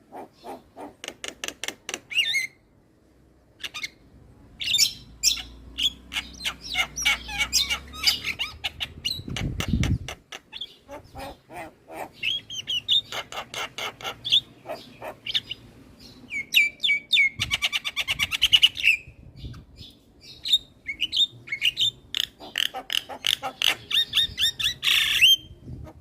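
Javan myna singing vigorously: fast rattling clicks, chattering phrases and short whistled notes, with a brief low thud about ten seconds in.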